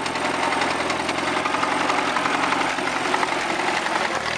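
Allis-Chalmers tractor engine running steadily with even firing pulses as the tractor is driven.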